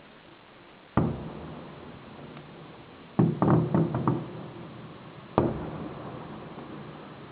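Fireworks shells bursting. A single boom comes about a second in, then a quick run of about six bangs over the next second around three to four seconds in, then another boom past five seconds. Each fades out slowly.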